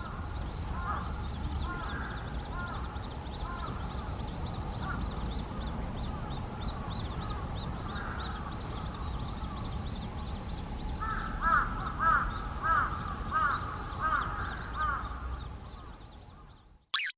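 Crows cawing over and over, with a louder run of about seven caws, roughly two a second, in the last few seconds. A steady low rumble runs underneath, and a short sharp sound comes at the very end.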